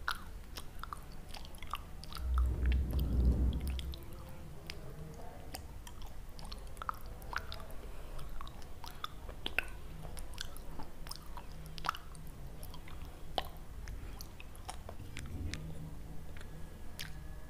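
Close-miked chewing of something crunchy: a steady run of crisp little crackles and crunches. There is a duller, louder low rumble about two to four seconds in.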